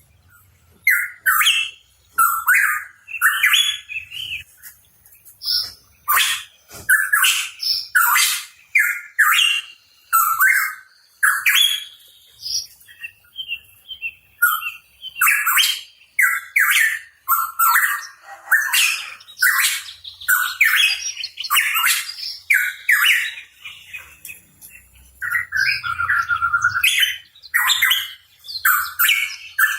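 Pitohui singing energetically: a rapid, unbroken run of short whistled and chattering notes mixed with sharp clicky calls, with a short break near the end.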